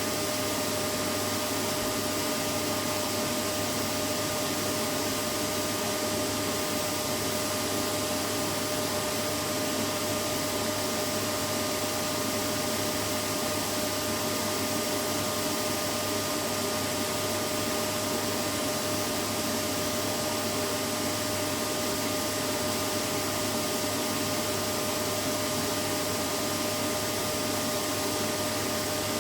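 Vacuum cleaner running steadily: an even rushing noise with a constant motor whine in it, never changing in pitch or loudness.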